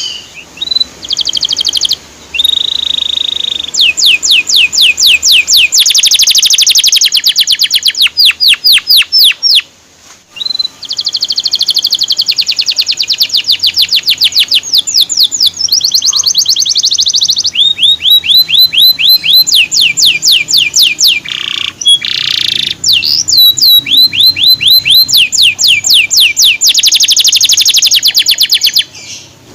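Male canary singing a loud, long song of rapid trills: each run of quickly repeated notes gives way to a new one every second or two, with a brief break about ten seconds in.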